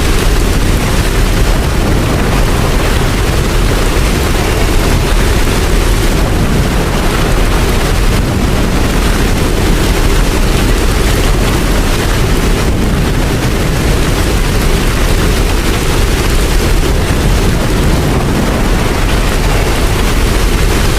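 Steady heavy rain, a dense even hiss over a deep low rumble, with no breaks or single drops standing out.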